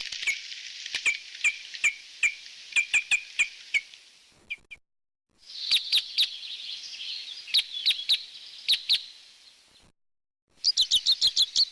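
Small songbirds chirping: many short, sharp, high calls over a steady background hiss of other birds, broken twice by brief silences, with a quick run of calls near the end.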